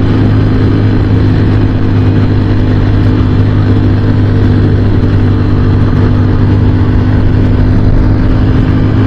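Honda XR150L's single-cylinder four-stroke engine running at a steady, even pitch under wide-open throttle, working hard to pull the small bike up a grade.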